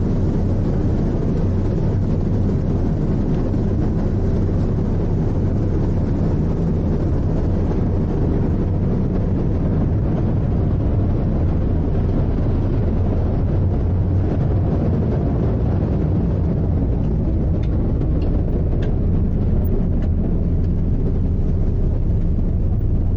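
Steady low drone of the icebreaker sightseeing ship Aurora's engines running underway, with an even hiss over it.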